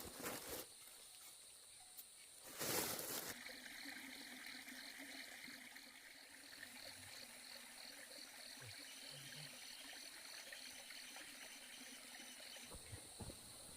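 Faint outdoor insect chorus: steady high buzzing tones with one chirp pulsing several times a second. About three seconds in there is a short, louder burst of rustling noise.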